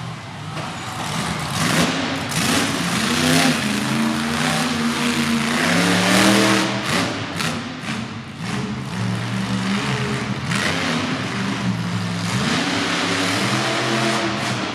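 Monster truck engine revving, its pitch repeatedly rising and falling through a freestyle run, with a few short sharp knocks in the middle.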